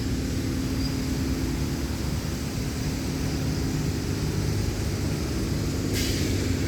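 Lovol LK 354 tractor's diesel engine running at a steady speed, a constant drone with a steady tone in it. A brief click about six seconds in.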